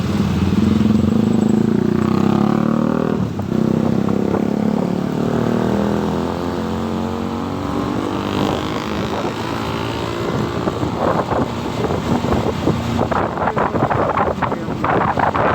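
Motorcycle engine running on the move, its pitch rising and falling with speed changes. Gusty wind buffets the microphone in the second half.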